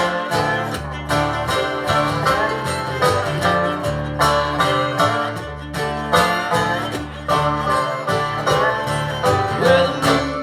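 Live country-bluegrass band playing an instrumental break, with picked banjo and guitar at a steady rhythm.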